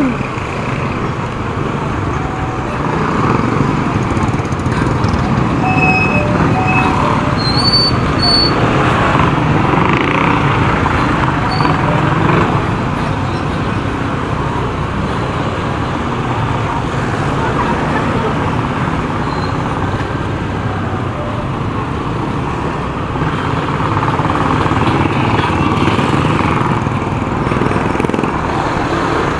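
Motorcycle riding through city traffic: steady engine and road noise with other vehicles around. A few short high beeps come roughly six to eight seconds in.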